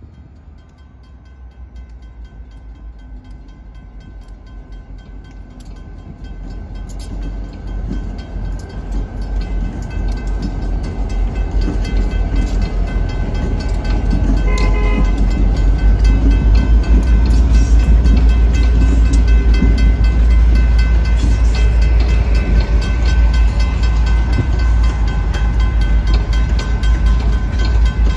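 Diesel-hauled grain train approaching and passing at a grade crossing: the locomotive's engine and the rolling cars make a heavy low rumble that builds steadily for about fifteen seconds, then stays loud and steady. A short horn note sounds about halfway through.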